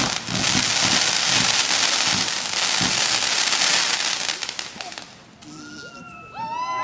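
Fireworks barrage: a dense crackling with repeated low booms, dying away about five seconds in. Near the end, onlookers begin cheering and whistling.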